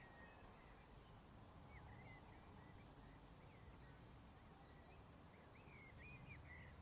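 Faint outdoor countryside ambience: scattered short bird chirps, with a quick run of them near the end, over a low, steady rumble.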